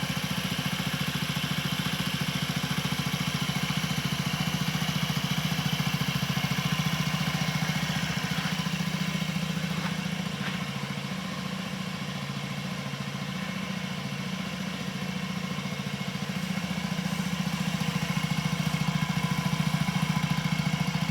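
Honda Zoomer scooter's small single-cylinder four-stroke engine idling steadily. Its loudness sags slightly in the middle and then comes back up.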